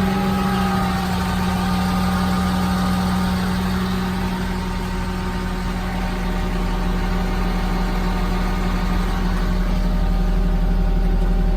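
Dodge Ram 5500 bucket truck's engine running steadily at idle while the aerial boom is being lowered, a constant hum with steady higher tones over it.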